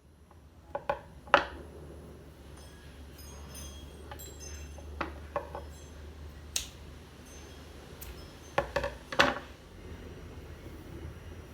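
Several sharp clicks and knocks of hard objects being handled, some ringing briefly, over a steady low hum.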